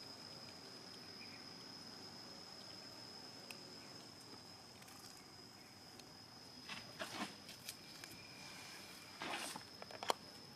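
Faint outdoor ambience with a steady high insect whine. Rustling and footsteps in dry leaves come about seven and nine seconds in, and a sharp snap about ten seconds in.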